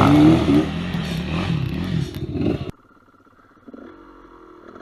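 GasGas EC200 two-stroke enduro motorcycle engine revving up and down over the throttle, then stopping abruptly about two and a half seconds in; only faint sounds follow.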